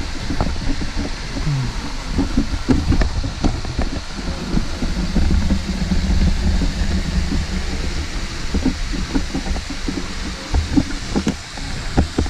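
Pork and onions sizzling steadily as they brown in a cast iron disc wok over a fire, with scattered small crackles and knocks. Wind on the microphone adds a low rumble underneath.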